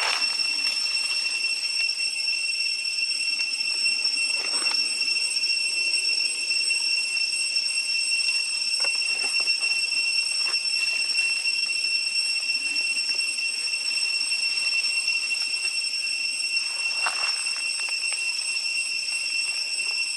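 Cicadas droning: one steady, unbroken high-pitched whine, with a few short faint sounds behind it.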